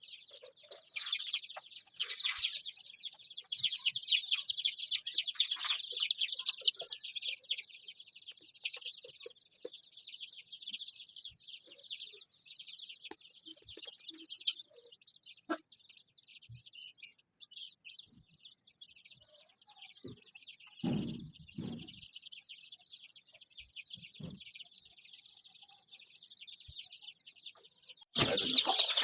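A brood of five-day-old chicken chicks peeping, many high cheeps overlapping without a break, louder in the first several seconds and again near the end. A few soft low knocks come about two-thirds of the way through.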